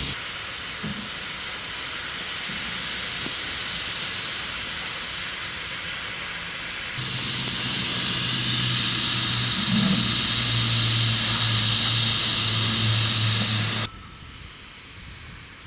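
Steam locomotive hissing steam, a steady hiss that grows louder about halfway through over a low steady hum, then stops abruptly near the end.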